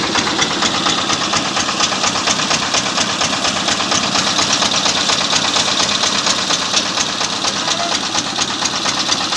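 Diesel tractor engine running steadily, with a rapid, even clatter.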